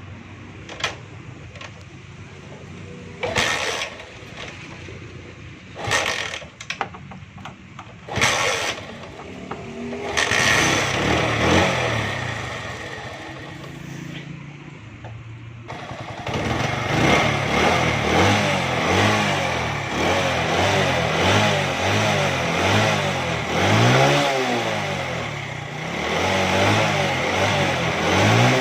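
Motorcycle engine being started after its carburetor has been cleaned and refitted, with the mixture not yet set: several short attempts, then it catches about ten seconds in and runs. From about sixteen seconds in it is revved up and down repeatedly with the throttle.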